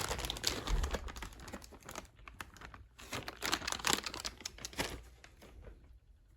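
Crinkling and rustling with many quick, light clicks and taps, dying away about five seconds in.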